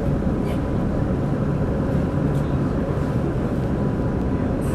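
Running noise of a Minato Mirai Line express train heard inside the passenger car: a steady low rumble of wheels and motors in the tunnel, with a faint steady whine.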